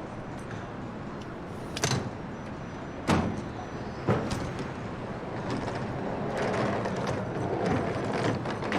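Steady vehicle background noise with three sharp door-like thuds, the first about two seconds in and the next two about a second apart, then a busier stretch of knocks and clatter near the end.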